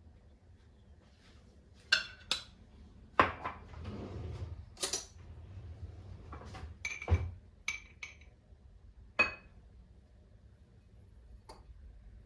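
Dishes and cutlery clinking and knocking, about ten separate strikes, several with a short ringing tone, and a softer noisy stretch about four seconds in.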